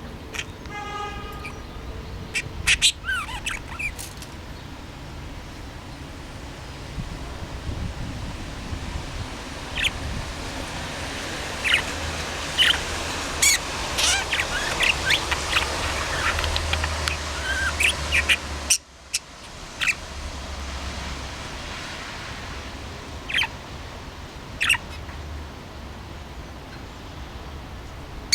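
Pet budgerigar chirping in short, scattered notes, mixed with sharp clicks and taps, over a low steady hum.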